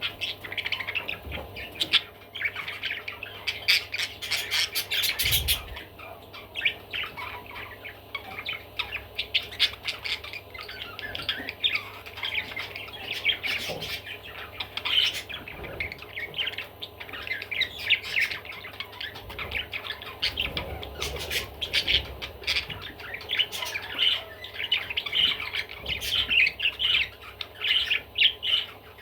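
Budgerigar chattering nonstop: a dense, rapid run of chirps, warbles and short squawks.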